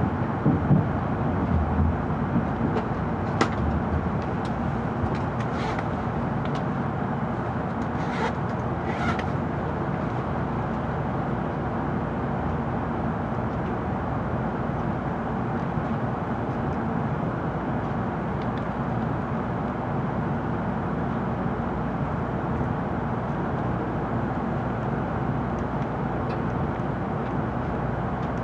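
Cabin running noise inside an N700 series Shinkansen car slowing into a station stop: a steady rumble and hiss that eases slightly in the first couple of seconds, with a few faint brief clicks in the first ten seconds.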